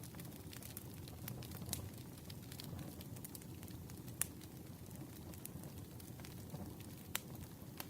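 Wood campfire crackling, with a low steady rush of burning and scattered sharp pops. Two louder pops come about four seconds in and near the end.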